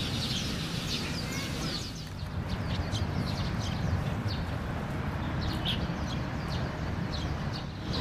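Birds chirping: repeated short, high chirps scattered through, over a steady low rumble.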